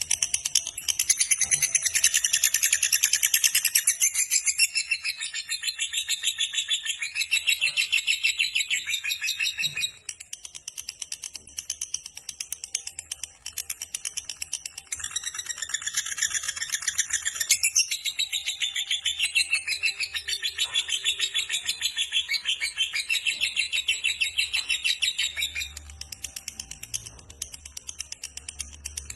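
Lovebird singing its long 'ngekek' song: a fast, rattling chatter of high notes in long unbroken bouts, the first about ten seconds long, then a few seconds of scattered chirps and a second bout of about ten seconds.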